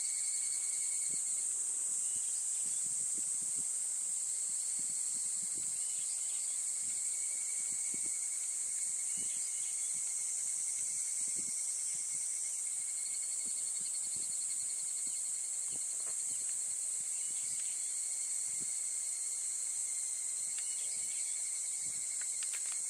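Insects chirring outdoors: a steady, very high-pitched drone, with a second insect trilling on a lower note that breaks off about a second in and comes back a few seconds later.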